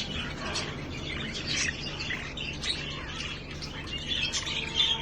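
A flock of budgerigars chattering, with many short, overlapping chirps.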